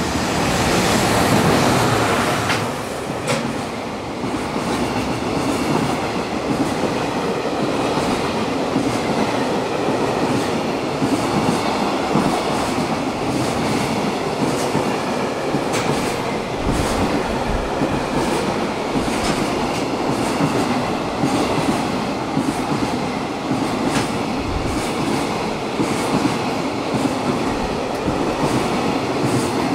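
JR Freight EF210 electric locomotive and its freight train passing through a station without stopping. The wagons' wheels clack over the rail joints in a long run of irregular clicks, loudest about a second in.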